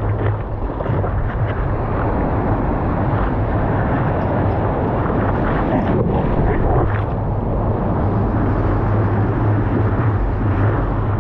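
Steady low drone of a running vehicle, a constant hum under an even rushing noise.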